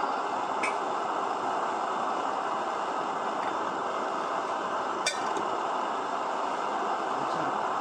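Optimus 99 petrol stove burning with a steady rushing noise, with two light clinks, a faint one about half a second in and a sharper one about five seconds in.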